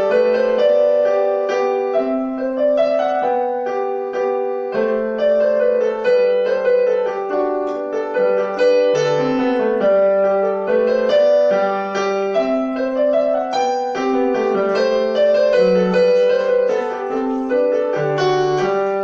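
Piano playing a continuous melody over lower accompanying notes, several notes a second.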